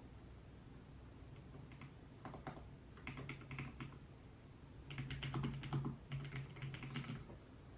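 Typing on a computer keyboard: quick runs of soft key clicks that begin about a second and a half in and are loudest a little past the middle.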